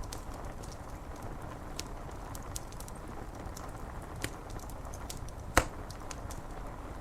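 Wood fire crackling, with scattered sharp pops, the loudest about five and a half seconds in, over a steady hiss of rain on window glass.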